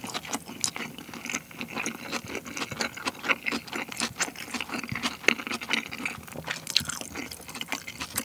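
Chewing of thick salmon nigiri: wet mouth sounds with many small clicks and smacks, the salmon firm and chewy.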